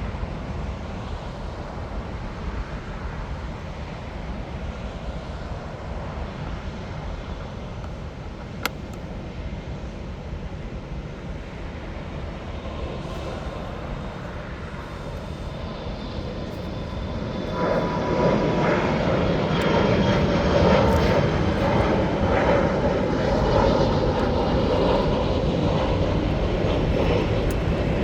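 Jet airliner engines: a low rumble that grows much louder about two-thirds of the way through and stays loud, with a faint whine over the roar.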